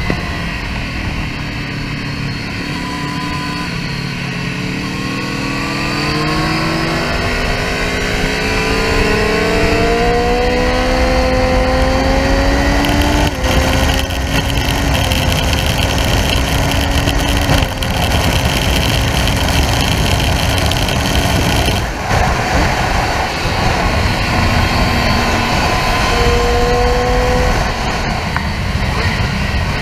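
Triumph Street Triple R's three-cylinder engine pulling hard, its note rising steadily through a gear and dropping sharply at upshifts about 13 and 18 seconds in. Wind rushes over the microphone at track speed.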